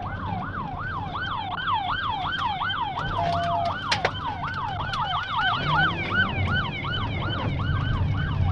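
Police car sirens: one yelping fast, about three sweeps a second, with a second, higher siren over it and the cruiser's engine running underneath. A single sharp knock about four seconds in.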